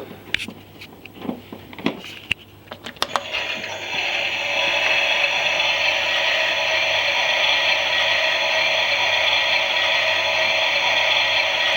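Klein toy Miele washing machine: a few sharp clicks and rattles, then about three and a half seconds in its small drum motor starts and runs with a steady whir.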